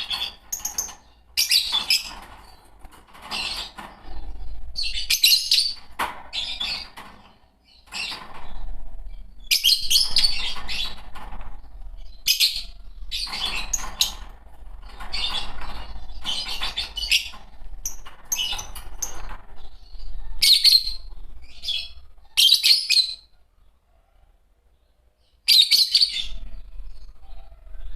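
Fischer's lovebirds chirping and chattering in a string of quick, shrill bursts, with short pauses between bouts and a longer lull near the end.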